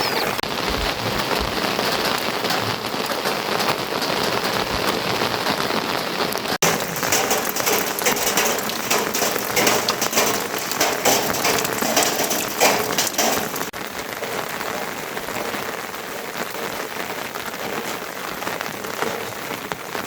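Steady rain falling, with the sound changing abruptly about a third and two-thirds of the way in. The middle stretch is fuller, with many sharp drop and drip taps.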